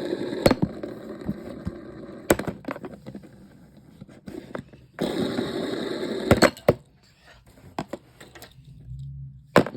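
Old ceiling fan running with a rattling whir, its spinning blades striking something with several sharp cracks that are bending the blades. A low motor hum comes through near the end.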